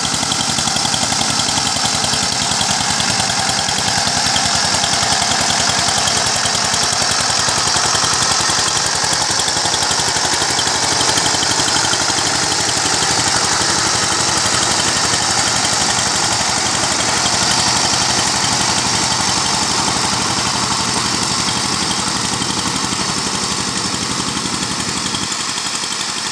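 Power tiller engine running steadily with a rapid, even firing beat as the machine works the land. It eases off slightly near the end.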